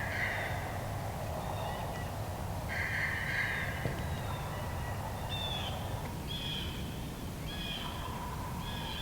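Wild turkey gobbler gobbling: two calls about a second long, then a run of shorter calls about a second apart, over steady wind noise.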